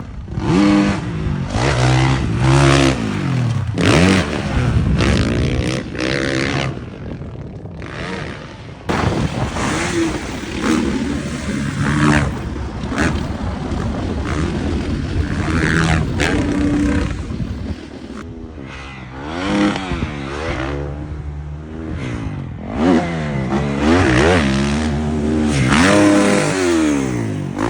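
Dirt bike engine ridden hard, revving up and backing off again and again, its pitch climbing and dropping over and over.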